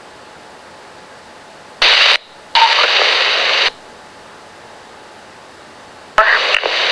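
Police scanner speaker giving three short bursts of radio static as the squelch opens on brief transmissions with no clear words, over a low steady hiss.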